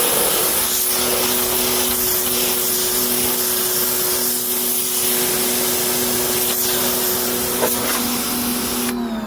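Pressure washer spraying plain water into a car's carpet, a steady hiss over the pump motor's hum, cutting off about nine seconds in.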